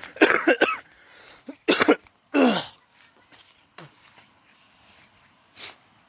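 A person coughing: three short, harsh coughs in the first few seconds, with a fainter one near the end.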